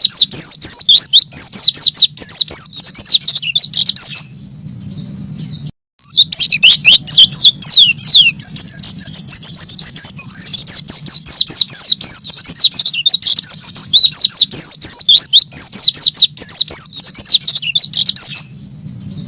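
White-eye (pleci) singing a fast, continuous twittering song of rapid high chirps and trills. It breaks off about four seconds in, resumes about two seconds later and stops again near the end.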